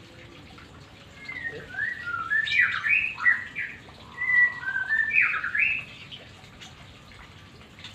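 White-rumped shama (murai batu) singing a burst of song of whistled glides and sharper notes, starting about a second in and ending at about six seconds.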